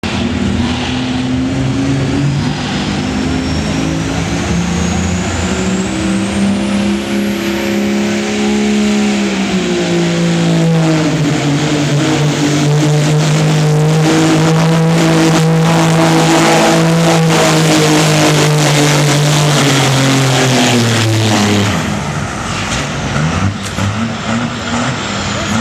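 Diesel pickup truck engine under full throttle pulling a weight sled. Its pitch climbs over the first several seconds while a high turbo whistle rises steeply, then it holds high and steady. About 21 seconds in, the engine winds down and quietens as the throttle comes off.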